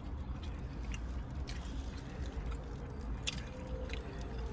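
Chewing and mouth noises close to the microphone: scattered small clicks and smacks, one sharper click about three seconds in, over a steady low rumble.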